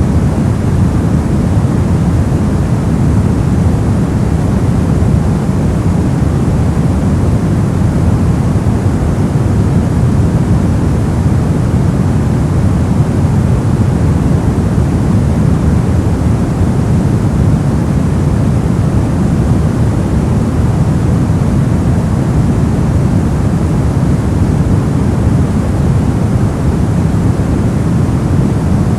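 Steady, unchanging noise from a white-noise sleep track, a deep, even rush that is heaviest in the low end and thinner in the highs.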